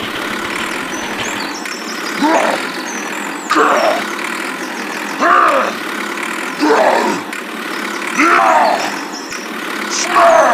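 An engine running steadily with an even drone, with a short pitched call, rising then falling, repeated six times about every one and a half seconds.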